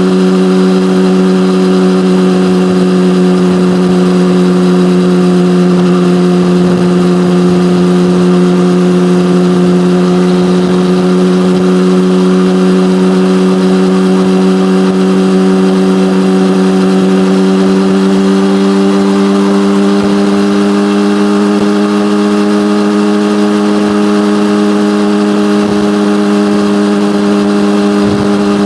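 Yamaha motorcycle engine with an SC-Project aftermarket exhaust, held at steady revs with a strong, even exhaust note; the pitch rises slightly about two-thirds of the way through.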